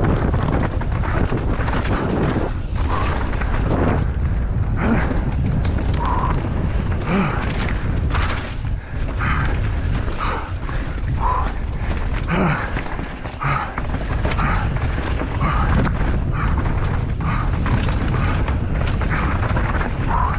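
Wind buffeting the microphone: a loud, steady low rumble, with faint short higher-pitched sounds coming roughly once a second over it.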